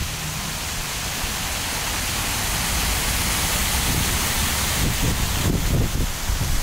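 Water pouring down an artificial waterfall cascade: a steady, even rushing hiss. Irregular low gusts of wind buffet the microphone, strongest near the end.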